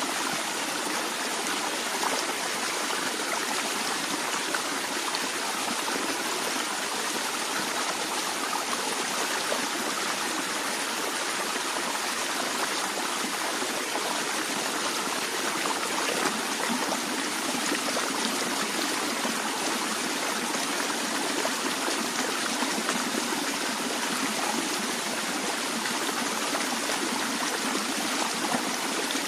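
A stream of water flowing and trickling steadily, with a dense, even rush of splashing and bubbling.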